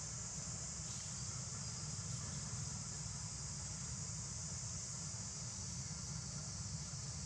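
Steady, unbroken high-pitched drone of an insect chorus, with a low rumble underneath.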